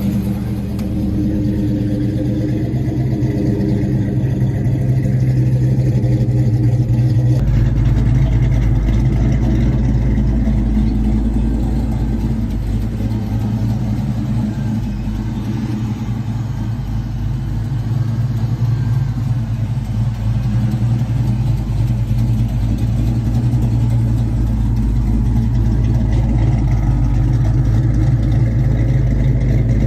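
1992 Ford Mustang LX engine idling steadily after a cold start. About seven seconds in the sound changes abruptly and becomes deeper.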